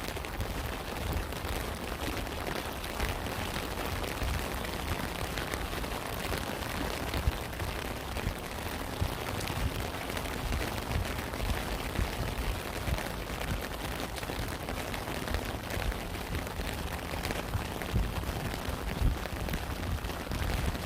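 Steady rain falling, with many separate drop hits over a constant hiss and a low rumble underneath.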